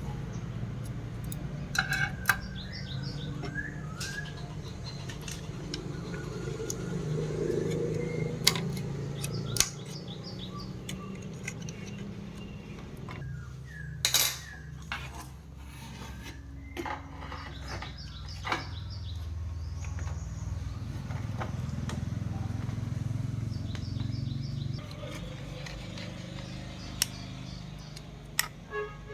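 Scattered sharp clicks and clinks of small tools and metal parts being handled during TV repair work, over a low steady hum. Birds chirp in short bursts in the background.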